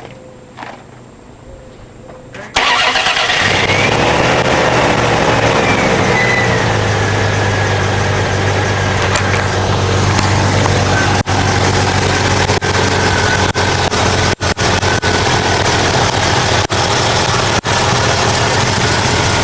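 Dodge Dakota pickup's engine starting about two and a half seconds in, then running loudly and steadily. A whine rises and falls during the first few seconds of running.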